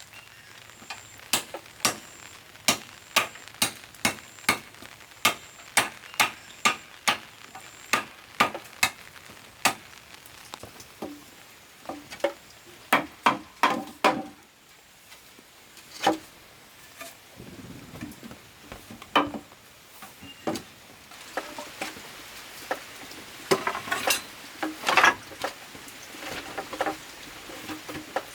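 Repeated sharp knocks of a hand tool striking, about two to three a second for the first ten seconds, then irregular, with softer rustling between strikes.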